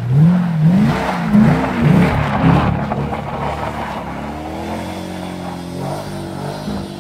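A 2009 Pontiac G8 GT's 6.0 L L76 V8, through Magnaflow axle-back mufflers and an X-pipe, revving up and down about five times in quick succession as the car spins its tyres in snow. It then holds steadier revs and grows a little quieter as the car slides away, with the hiss of tyres spinning on snow underneath.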